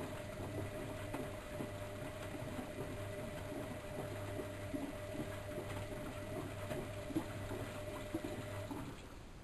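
Bauknecht WAK7760 washing machine moving water, with a steady electric hum and splashing, which cuts off shortly before the end.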